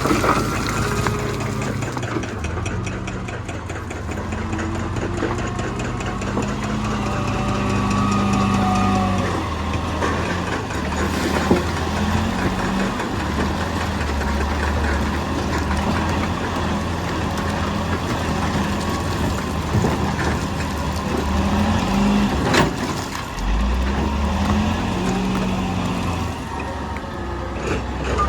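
Heavy diesel earthmoving machinery running, its engine speed rising and falling. There are two sharp knocks, about a third and about four-fifths of the way through.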